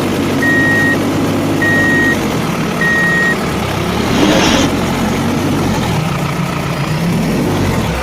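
Truck reversing beeper sounding three times, about a second apart, over a steady engine rumble, followed by a short hiss about four seconds in.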